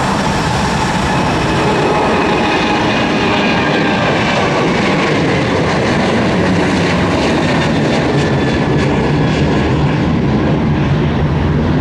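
Jet airliner engines running loud and steady as a plane passes, a faint whine within the roar slowly falling in pitch.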